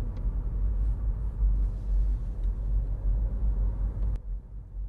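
Low, steady rumble of road and engine noise inside a Mini Cooper's cabin while it is being driven. About four seconds in, the higher hiss cuts off abruptly and the low rumble goes on.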